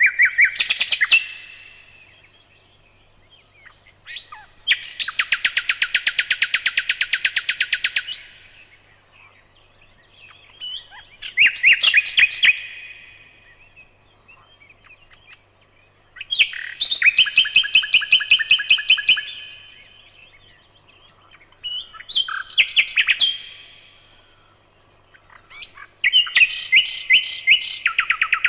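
Nightingale singing loudly in six separate phrases, each a fast run of repeated notes, with short pauses between them. The longest phrase is a rattle of about three seconds, a few seconds in.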